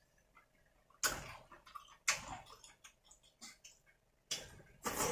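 Crunching and cracking of seafood being bitten or broken apart: two loud crunches about a second apart, lighter clicks after them, then more crunching near the end.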